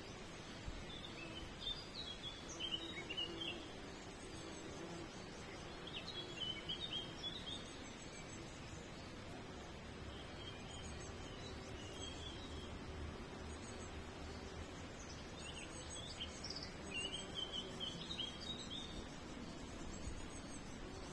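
Small songbirds singing short twittering, chirping phrases every few seconds over a steady background hiss.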